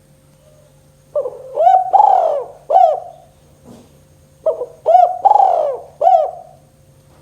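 Spotted dove (tekukur) cooing: two phrases of several notes each, the first starting about a second in and the second about three seconds later.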